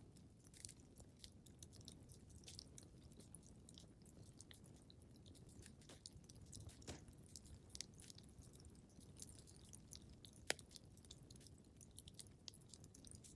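Wood fire crackling in a fireplace: faint, irregular pops and snaps over a low rumble of burning, with one sharper pop about ten seconds in.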